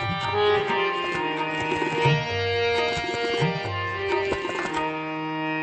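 Instrumental interlude of a Marathi bhavgeet: tabla strokes under a melody of held notes on a sustained-tone instrument.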